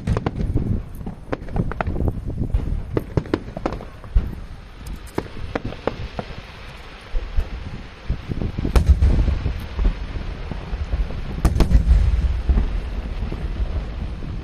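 Aerial fireworks shells bursting in a fast string of sharp bangs. Heavier booms with a low rumble come about nine seconds in and again about eleven and a half seconds in.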